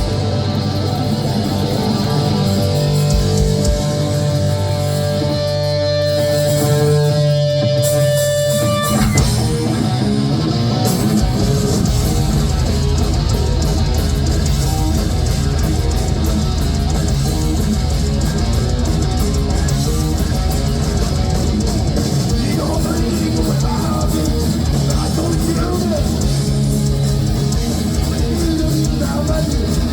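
Heavy metal band playing live: distorted electric guitars, bass guitar and drum kit. A held guitar note over a sparser part gives way to the full band, drums included, about nine seconds in.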